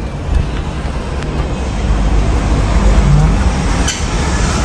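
Car engine idling, a steady low rumble heard from inside the car's cabin, with a single sharp click about four seconds in.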